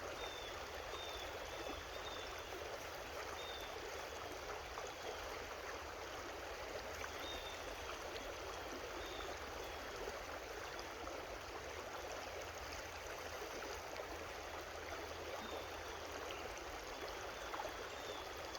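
Creek water running steadily, an even rushing babble, with faint high chirps now and then.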